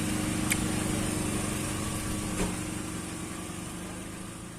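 A small engine running steadily with a low hum over a noisy background, with two light clicks, fading out toward the end.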